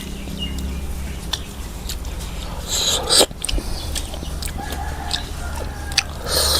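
Close-up eating sounds: chewing, biting and mouth clicks over a steady low hum, with louder chewing about three seconds in and near the end.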